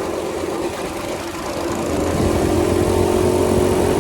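Small minibike engine running; it gets louder and steadier about halfway through.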